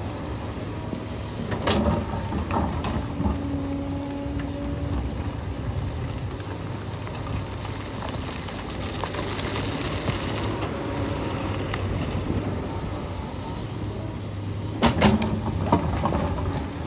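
Hyundai excavator's diesel engine running steadily, with sharp metallic clanks about two seconds in and again near the end.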